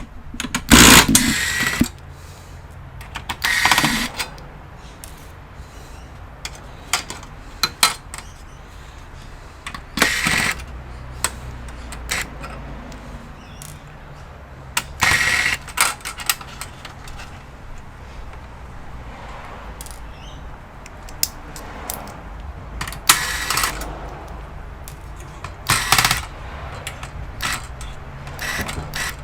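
Work noise from taking apart an all-in-one computer: about half a dozen short bursts of clicking, scraping and tool noise, each lasting around a second, over a faint steady low hum.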